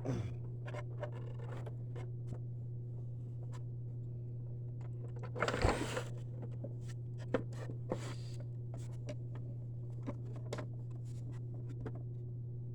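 Hands working a rubber drive belt onto an upright vacuum's pulley: scattered clicks and short scrapes of belt and plastic parts, with a longer scrape about five and a half seconds in, over a steady low hum.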